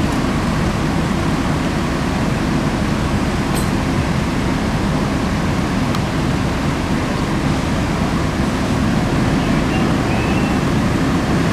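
Steady, even low rumble of road-vehicle noise, with no siren.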